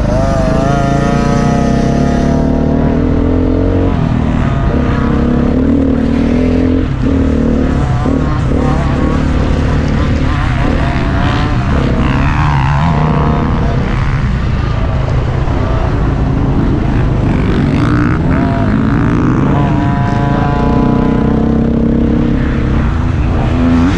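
Dirt bike engines running hard on a motocross track, revving up and dropping back again and again, with the pitch rising and falling.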